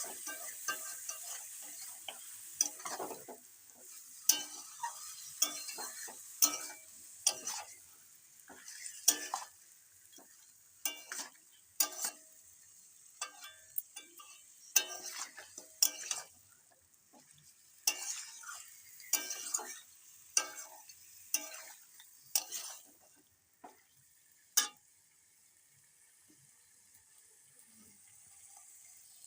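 A spatula scraping and knocking in a kadai as chicken pieces are stirred through spices frying in mustard oil, over a steady sizzle: the browning stage where the masala is cooked until the oil separates. The stirring stops a few seconds before the end after one last sharp knock, leaving only a faint sizzle.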